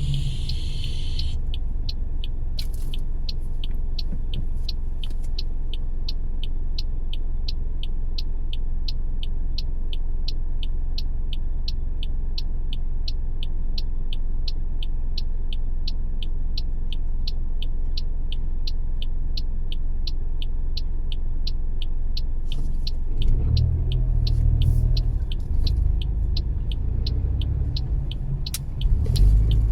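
Car driving: a steady low engine and road rumble with a fast, even ticking, about two to three ticks a second. The rumble grows louder about 23 seconds in.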